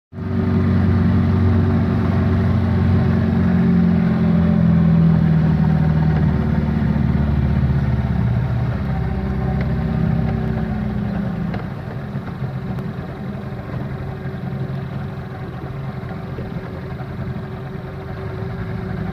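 A fishing boat's engine running steadily with a low, even hum, somewhat quieter after about twelve seconds.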